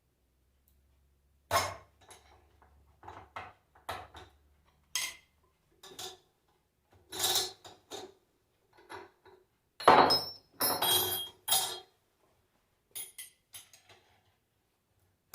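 Irregular metallic clinks and knocks of tools and alternator parts being handled during disassembly, with a louder cluster of clatter about ten seconds in.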